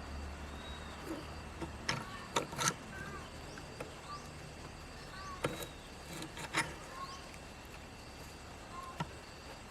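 Irregular sharp knocks and clicks, about seven of them, with short high chirps, like small birds, in the background.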